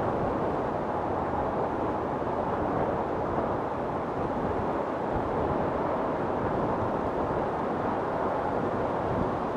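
Wind storm blowing steadily, a dense rushing noise with small swells in level and no distinct events.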